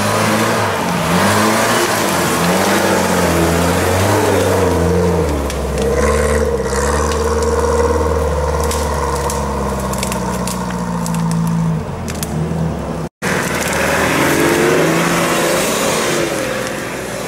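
Off-road 4x4 engines revving up and down as the vehicles crawl through tall grass and brush. The sound drops out for an instant about thirteen seconds in, then the engine noise carries on.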